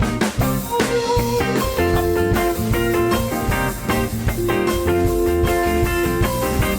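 Live rock band playing an instrumental passage: electric guitar lines over bass and drum kit, with no vocals, recorded on a camcorder's built-in microphone.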